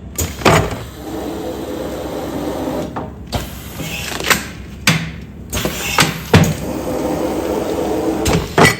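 Automatic food-container sealing machine running continuously, its motor going steadily while the sealing cycle gives sharp clunks every second or so, about seven in all.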